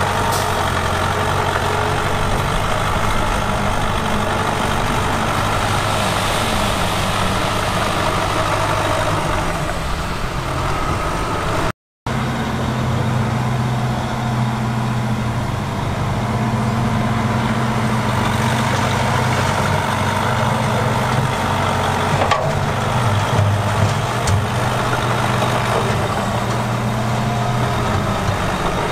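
Diesel engines of heavy earthmoving equipment running steadily. The sound drops out for a moment about twelve seconds in and comes back with a different engine note.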